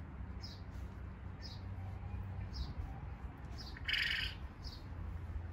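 A small bird repeating a short, high, falling chirp about once a second, with one louder, fuller call about four seconds in, over a steady low background hum.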